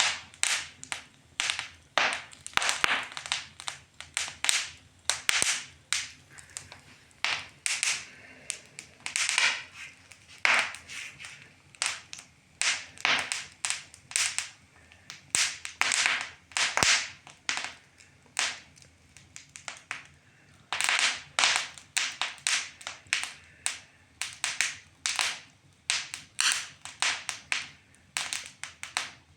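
Wood fire crackling in a fireplace: an irregular run of sharp pops and snaps, a few each second.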